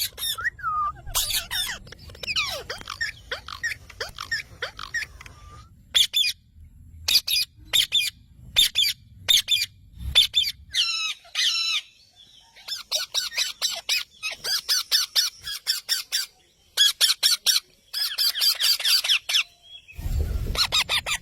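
Pet parrots chattering: rapid high chirps and squawks in bursts of a second or two, with short pauses between. A brief low rumble comes near the end.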